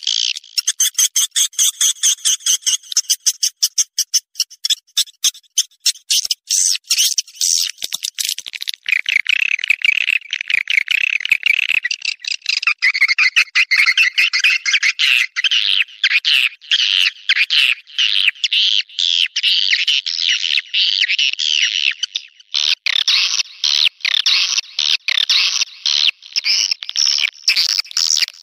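Swiftlets' mating calls: a loud, dense run of rapid high chirps and clicking twitters. The pattern changes about a third of the way in and again near the end.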